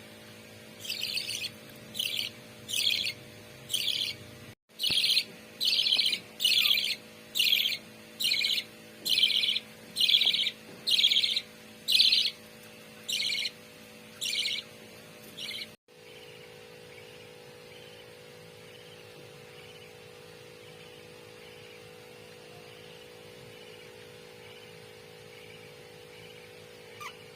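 Budgerigars calling: a loud series of sharp, rasping calls about one a second, which stops about two-thirds of the way through. After that, only faint chirping over a steady low hum.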